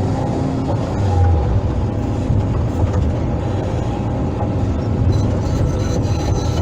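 Hydraulic excavator's diesel engine running steadily under load as it piles and mixes gravel. There is a brief louder swell about a second in.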